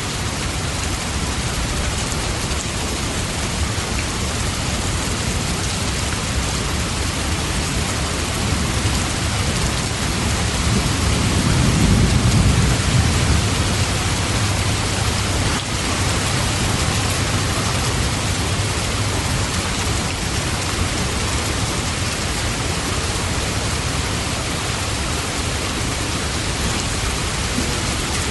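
Steady heavy rain falling, with a low roll of thunder swelling and fading near the middle.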